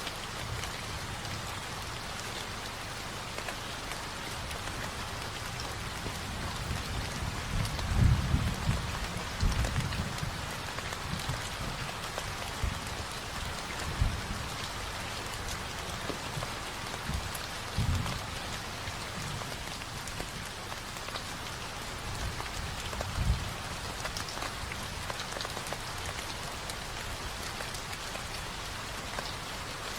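Steady rain falling on a surface, an even patter throughout. A few short low thumps stand out, a cluster about eight to ten seconds in and single ones around 14, 18 and 23 seconds.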